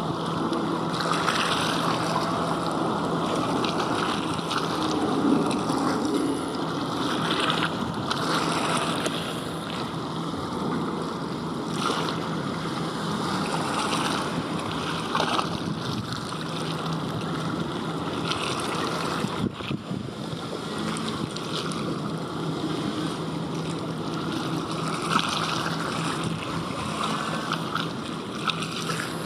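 Wind and water noise rising and falling, with a faint low steady hum that comes and goes.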